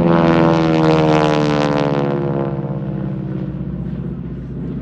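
Piston-engined propeller aircraft flying past, the engine and propeller drone loudest early on, then dropping in pitch and fading as it passes and moves away.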